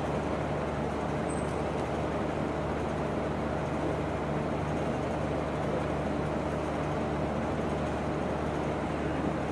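Steady low hum and hiss of background room noise, even throughout with no distinct events, as heard through the mosque's amplified sound system during a silent pause in the prayer.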